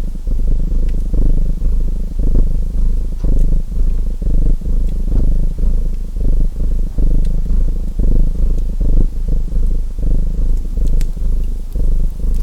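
A cat purring close up, the purr swelling and fading about once a second with each breath in and out. Faint crackles of a wood fire come through now and then.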